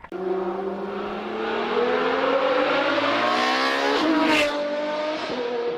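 A start attempt on a Mk6 VW Jetta: a steady mechanical whir that rises slowly in pitch for about four seconds. A sharp crack comes about four seconds in, after which the pitch drops back and holds steady.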